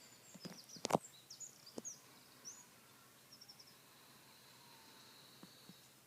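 Small birds chirping in short, high, quick notes over a quiet outdoor background, with a few sharp clicks or knocks in the first two seconds, the loudest just before one second in.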